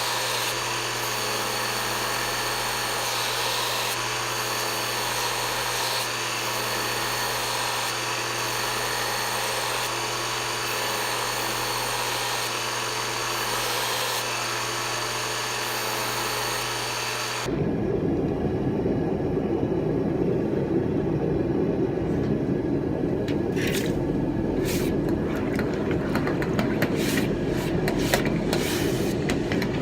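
A power tool running steadily with a constant whine. About 17 seconds in the sound changes abruptly to a rougher, lower rushing noise with scattered clicks.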